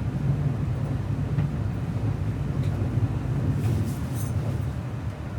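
Cabin noise of an N700A series Shinkansen running at speed: a steady low rumble with a faint hiss above it, easing off slightly near the end.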